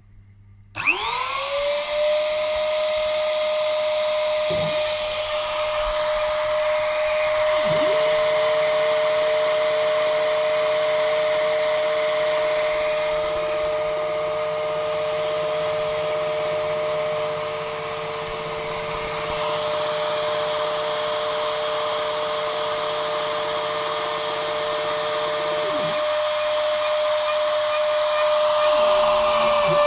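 Homemade Arduino-controlled CNC machine running: a motor spins up about a second in and holds a steady high whine, and a second, lower whine joins about a quarter of the way through and stops near the end.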